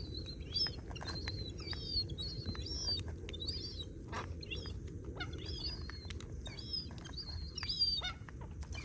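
Gull chicks begging: a steady series of short, high-pitched peeping calls, about two a second.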